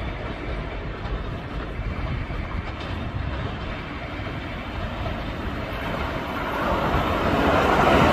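Keio Sagamihara Line train approaching the platform: a steady rail rumble that grows steadily louder over the last couple of seconds.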